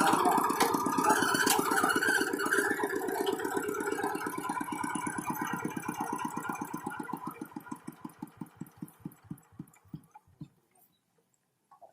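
Tractor engine running with a steady beat, then slowing and fading, the beats coming farther and farther apart until the engine stops about ten seconds in: the engine being shut down.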